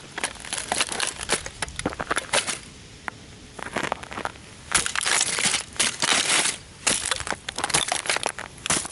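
A model toy car being crushed and crackling under stomping rugby cleats, its plastic and parts crunching and breaking in dense bursts. The crunching eases off for about two seconds near the middle, then comes back in two more runs.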